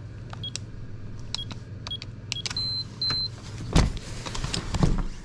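Electronic keypad door lock: four key presses, each a click with a short high beep, then two longer beeps as the code is accepted. About four seconds in comes a loud clunk of the latch, followed by clicks and rattling as the handle turns and the door opens.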